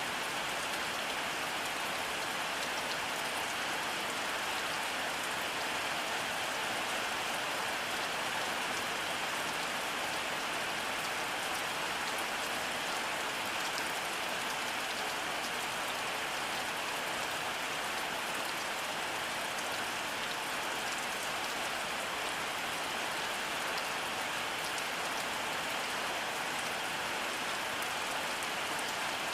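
Steady rainfall, an even hiss of drops falling on surfaces with no thunder.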